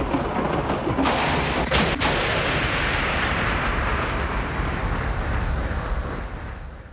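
Thunder: a loud rolling rumble with sharp cracks about one and two seconds in, fading away near the end.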